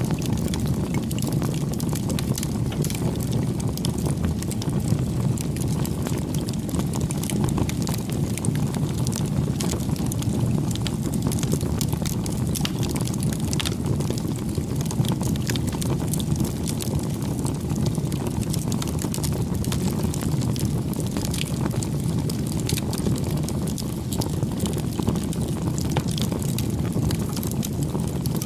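Campfire burning: a steady low rush of flames with many small crackles and pops of burning wood scattered throughout.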